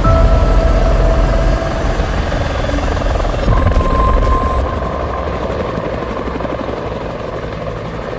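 Helicopter flying, its rotor and engine making a dense, steady noise with a strong low rumble that gradually fades over the last several seconds.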